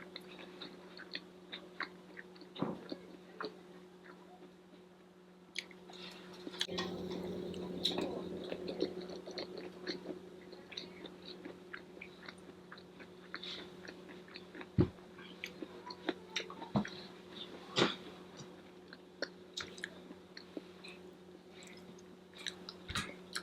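Close-miked chewing and mouth sounds of a person eating a meal of vegetables and rice: irregular small crunches, clicks and smacks, a few of them sharper, over a steady low hum.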